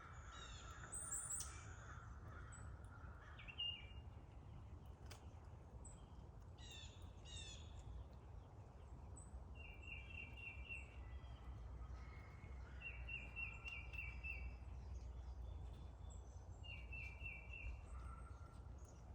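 Faint songbirds calling: high chirps early on, then three short runs of quick repeated notes, over a low steady rumble.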